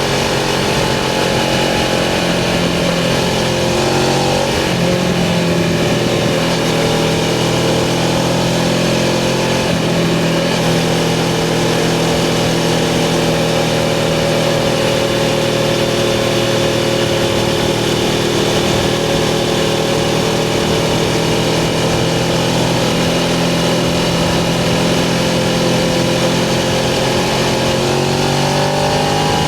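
Suzuki GS500's air-cooled parallel-twin engine running at steady cruising revs, with a few small dips in pitch and a rise near the end as the throttle opens.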